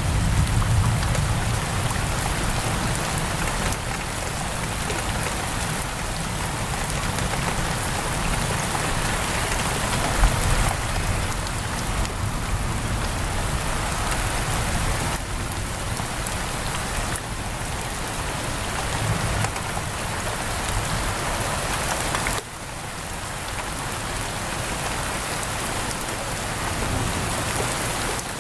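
Heavy rain pouring steadily on a window, a dense, even hiss of raindrops. A low rumble of thunder fades out near the start.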